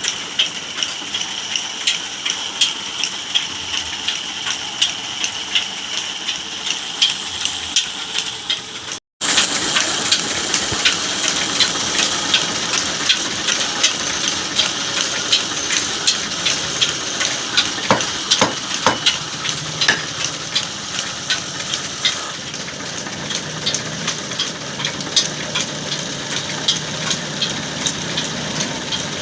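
Wood being cut and shaped by a tool: a steady rasping hiss full of small rapid ticks. It drops out for a moment about nine seconds in, then carries on.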